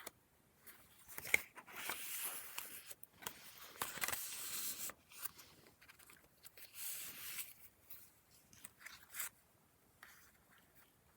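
Paper rustling as pages of a handmade junk journal are turned and handled, in several short bursts about a second or two long.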